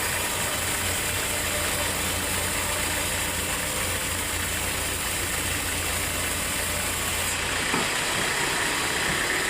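Sawmill machinery running steadily, a continuous engine-like hum under a hiss. The low hum drops away about eight seconds in.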